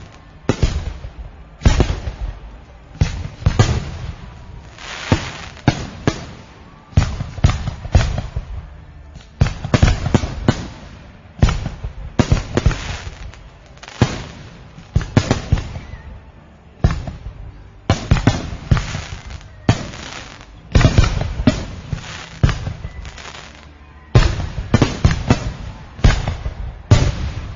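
Fireworks exploding in a long, constant barrage. Sharp bangs come about every second, often in quick clusters of several, each trailing off in a rumbling echo.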